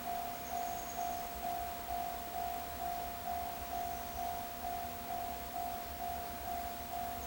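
Railway level crossing warning bell ringing steadily at about two dings a second, the alarm that a train is approaching.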